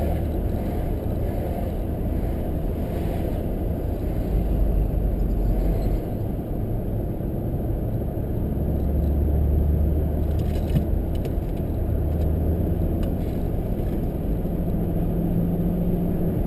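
Steady low rumble of a car driving: engine and tyre noise heard from inside the cabin, with a few light clicks or rattles about ten seconds in.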